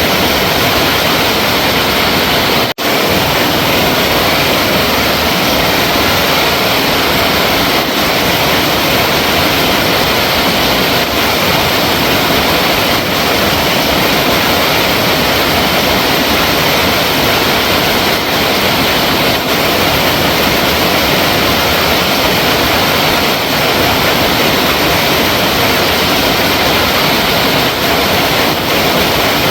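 Flowing water rushing steadily, with a momentary gap in the sound about three seconds in.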